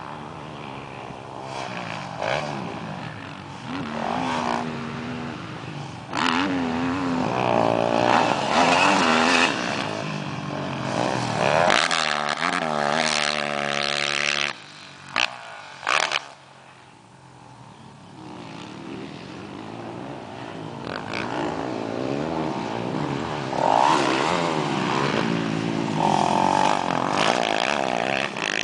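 Motocross bikes' engines revving up and falling back as they ride the track and pass by, the pitch climbing and dropping again and again. A few sharp knocks come about halfway through, followed by a quieter stretch before the engines build up again.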